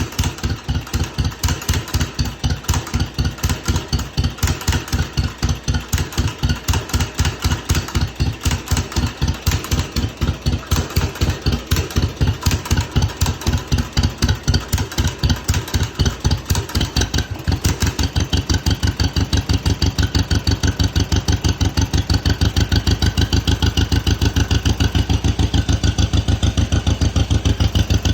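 1952 John Deere MT's two-cylinder engine idling at its slowest, with the slow, even popping of a two-cylinder John Deere. About seventeen seconds in, the pops pick up to a faster, steadier beat.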